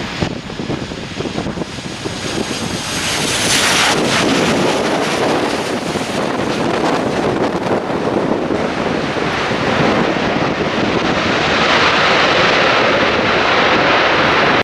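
Jet airliner passing close on landing: engine noise builds over the first few seconds, a high whine slides down in pitch about four seconds in, then a steady loud rush of engine noise, with strong wind buffeting the microphone.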